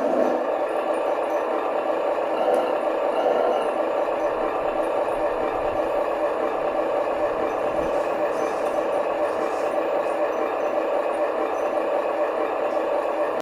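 Huina 1573 RC dump truck running, a steady mechanical motor sound that holds an even pitch and cuts off suddenly at the end.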